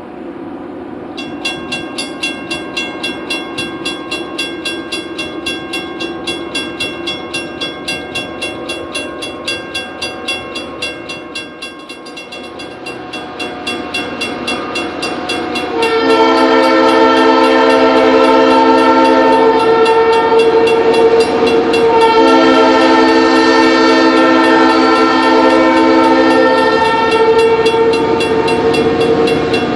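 Diesel freight locomotive drawing near, its engine running with a regular pulsing beat. It then sounds its multi-chime air horn in two long blasts, the second starting about six seconds after the first.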